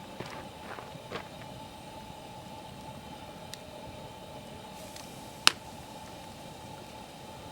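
Wood campfire crackling, with a few soft pops in the first second or so and one sharp, loud pop about five and a half seconds in, over a faint steady hum.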